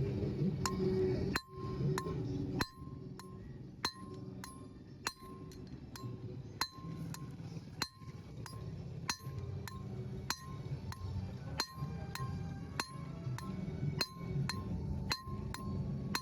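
A farrier's hammer striking metal in a steady rhythm, about one ringing clink every second and a bit, with lighter taps between the main blows.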